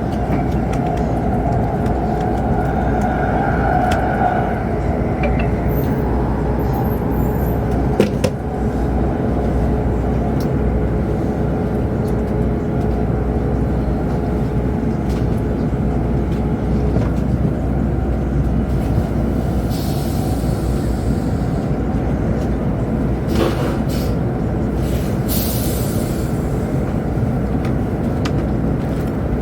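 Steady rumble of a Chinese high-speed train heard from inside the passenger cabin. A single sharp knock comes about eight seconds in, and a few brief hissing noises come later on.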